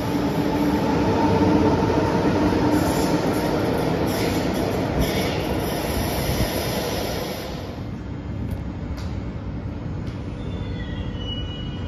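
SBB double-deck S-Bahn train pulling out of an underground station: loud running rumble with a steady hum, dying away about seven to eight seconds in. A couple of clicks follow, then a quieter steady hum.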